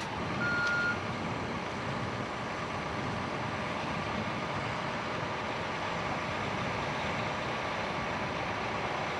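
A single short, high beep about half a second in, over the steady rumble of idling truck engines.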